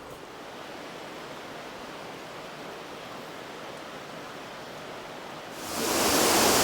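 Faint, steady rush of falling water. About five and a half seconds in it swells suddenly to the loud, full rush of Russell Falls close by.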